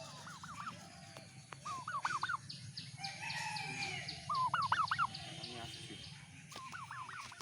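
Domestic turkey gobbling four times, each gobble a quick warbling rattle of notes, about two seconds apart. Other, higher bird calls sound between the gobbles.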